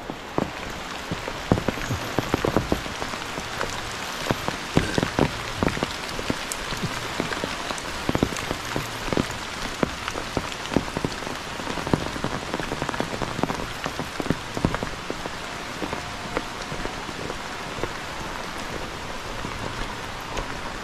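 Heavy rain falling steadily, with frequent sharp taps of large drops striking close by.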